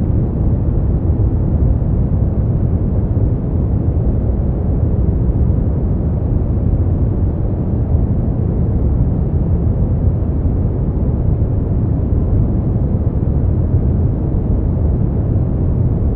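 Steady brown noise: a deep, even rushing hiss, heaviest in the low end and dull in the highs, with no change in level.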